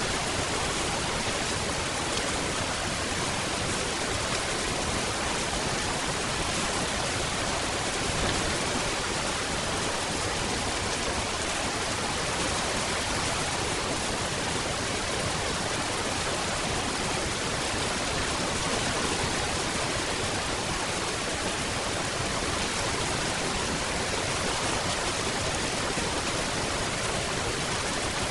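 Steady rain: a dense, even hiss with no single drops standing out and no change in level.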